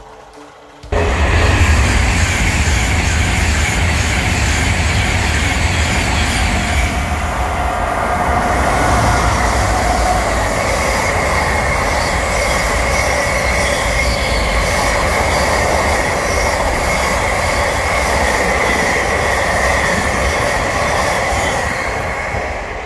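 A locomotive-hauled freight train of empty container flat wagons passing close by on the rails, with a steady rumble and a high, steady squeal from the wheels. It begins abruptly about a second in.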